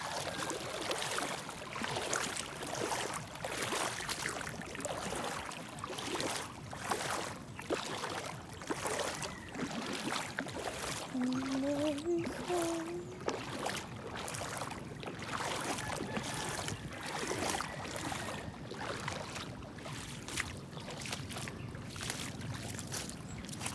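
Water splashing and sloshing in irregular strokes, with a brief rising tone about eleven seconds in.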